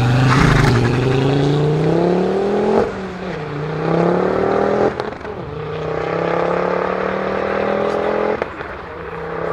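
Mk2 Ford Focus RS's turbocharged five-cylinder engine accelerating hard away. The engine note climbs through the revs, drops back at gear changes about three, five and eight and a half seconds in, and gives a short crack at the last two shifts.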